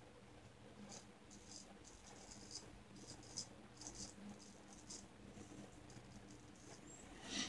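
Shavette razor blade scraping through lathered stubble in faint, short scratchy strokes, several in quick succession, on an upward pass. A short, louder noise comes near the end.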